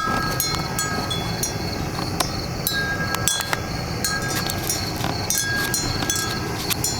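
Propane weed burner torch burning steadily as it fires a raku kiln, a continuous even rush of flame. Light high ticks and short ringing chime-like tones come and go over it.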